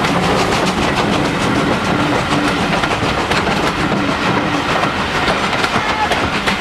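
Steam-hauled train running steadily: a continuous rumble with many sharp clicks and knocks of wheels on the rails.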